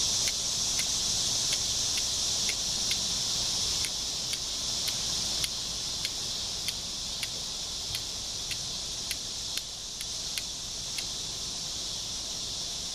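Flint struck against a steel striker in a regular run of sharp clicks, about two a second, stopping near the end: repeated strikes to throw sparks onto char cloth. Underneath is a constant high buzz of insects.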